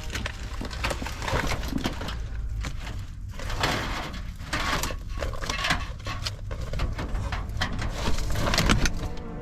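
Snow crunching and scraping in a run of irregular strokes, over a low steady rumble.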